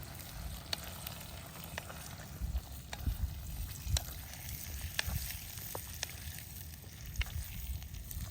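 Food frying in a pan, sizzling steadily, with scattered sharp ticks and clicks.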